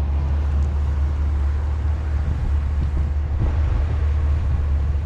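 Duct tape being pulled off the roll and wound around a tool handle, with a few faint crackles around the middle, over a steady low rumble.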